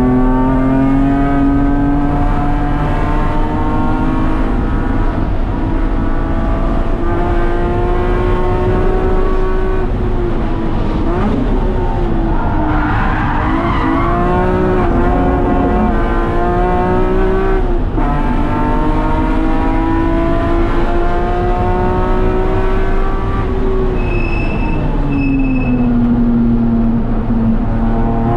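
BMW S54 3.2-litre straight-six heard from inside the cabin, running hard on track: its pitch climbs slowly, wavers and dips around the middle, holds steady, then falls a few seconds before the end. A burst of tyre squeal comes about halfway through, and two short high beeps sound near the end.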